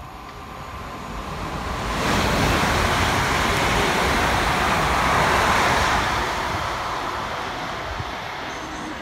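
London Northwestern Railway electric multiple unit passing through at speed. Its rush of wheels on rail and air builds to a peak about two seconds in, holds for a few seconds, then fades.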